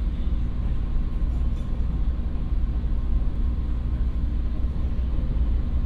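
Cabin sound of a 113-series electric train running at speed: a steady low rumble of the wheels and running gear on the track, with a faint steady hum underneath.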